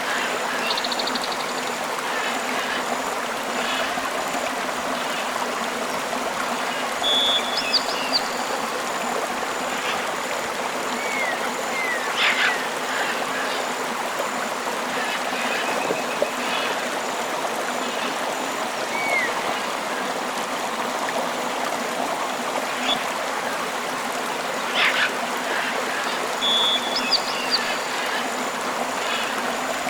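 Tropical river water flowing in a steady rush, with a few short bird calls and chirps now and then.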